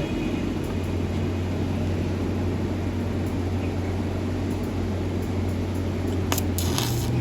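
Steady hum of an electric fan blowing air, with a few sharp metallic clicks of tools near the end.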